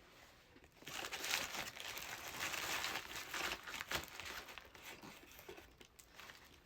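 Fast-food paper wrapper being crumpled and rustled by hand. The crinkling starts about a second in, runs for about four seconds, then tapers off.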